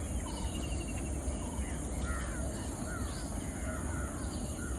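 Birds calling outdoors, a scatter of short chirps and calls, over a steady low rumble.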